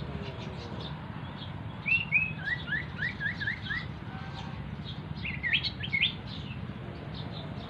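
A small songbird known locally as sirtu or cito gives short bursts of song. Two high notes about two seconds in lead into a quick run of five downward-slurred chirps, and a second cluster of sharp chirps comes about five and a half seconds in, over a steady low hum.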